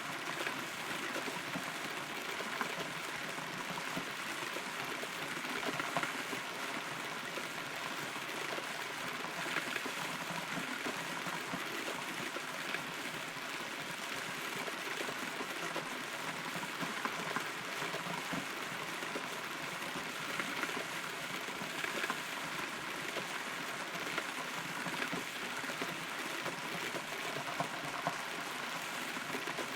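Steady rain heard from inside a hollow rotten tree, a continuous patter with occasional louder drops.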